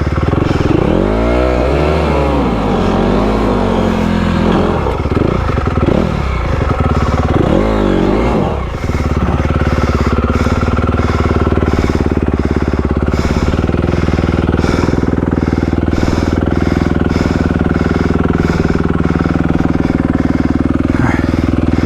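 Honda CRF250R dirt bike's single-cylinder four-stroke engine revving up and falling back several times over the first nine seconds or so, then running at a steady speed.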